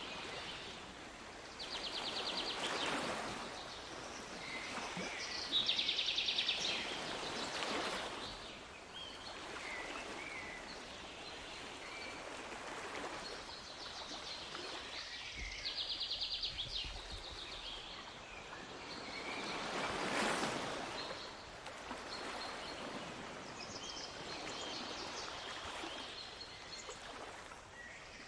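Sea waves washing in, swelling and fading every few seconds, with small birds singing over them. The birds give short rapid trills several times, the loudest about six seconds in, and scattered chirps.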